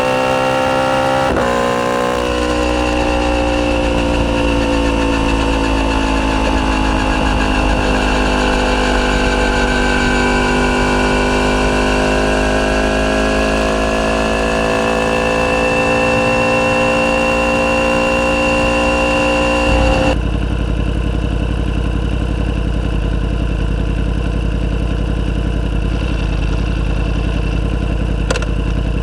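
Yamaha YZF-R1's crossplane inline-four running through a decatted Akrapovic full titanium exhaust, holding a steady note that rises and falls gently with small throttle changes. About two-thirds of the way through, the note changes abruptly to a flatter, rougher tone.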